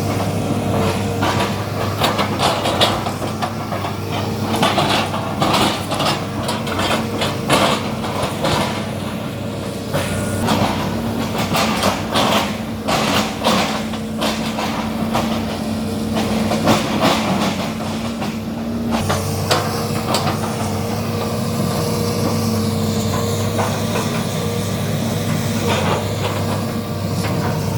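Excavator's diesel engine running steadily while the machine works oil palm trunks, with many sharp knocks and cracks over the first two-thirds; after that, mostly the steady engine drone.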